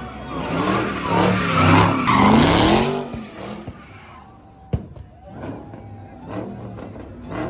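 Car engine revving up and down with tyres squealing on the pavement; the noise dies down about three seconds in, and a single sharp crack comes a little later.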